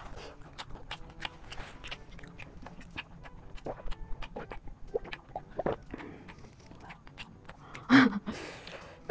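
Close-miked chewing of crunchy panipuri and chatpatey: a run of faint, irregular crackles and mouth clicks. A brief voice sound about eight seconds in is the loudest event.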